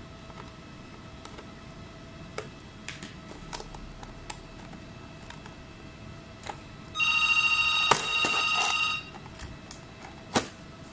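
An electronic ringing tone of several steady pitches sounds once, about seven seconds in, for about two seconds. Scattered small clicks and taps are heard before and after it.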